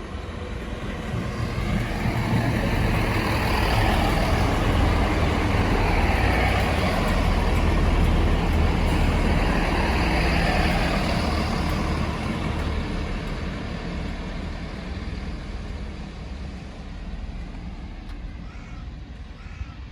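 Class 165 diesel multiple unit running in along the platform, its underfloor diesel engines rumbling. The sound swells over the first several seconds and then slowly fades as the train draws in and slows.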